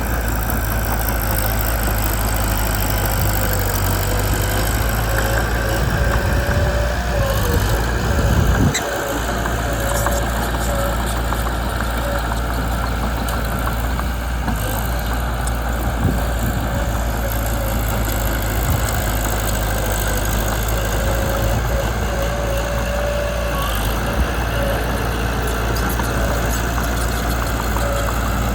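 Mitsubishi BD2 small bulldozer's diesel engine running steadily, the level dipping slightly about nine seconds in.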